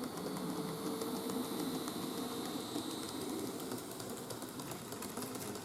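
N-gauge model train running on its track: a small motor's thin whine with rapid light clicking of wheels over rail joints. The whine fades after about three seconds while the clicking goes on.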